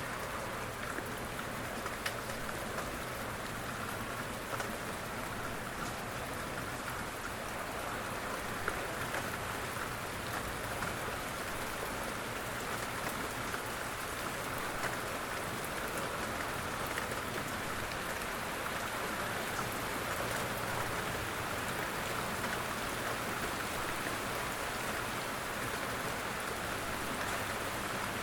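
Steady rain falling, an even hiss with scattered louder drop ticks now and then.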